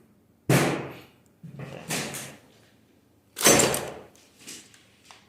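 Two loud bangs about three seconds apart, each dying away over half a second, with a softer knock between them.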